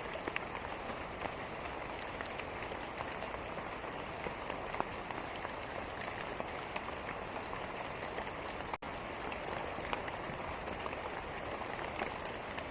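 Steady rain falling, an even hiss with scattered sharp ticks of single drops hitting a surface. A very brief gap in the sound about nine seconds in.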